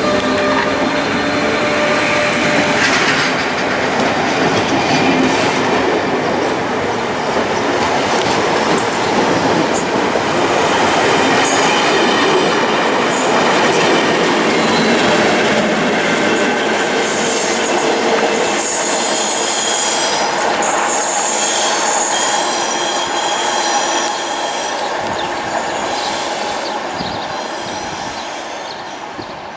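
A train passing close by, its wheels clattering over the rail joints. A high-pitched wheel squeal comes in about two-thirds of the way through, and the sound fades away near the end as the train recedes.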